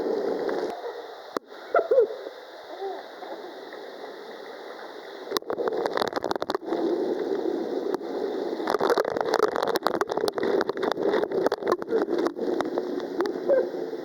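Rushing, splashing water with crackles and bursts of noise, heard through a waterproof camera housing. It is quieter for a few seconds, then louder and choppier from about five seconds in. Faint voices can be heard briefly.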